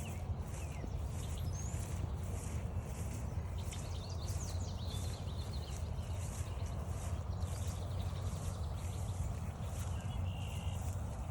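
Steady walking footsteps on a trail, about two steps a second, over a continuous low rumble. Wild songbirds give short chirps and whistles, a little after the start, around the middle and near the end.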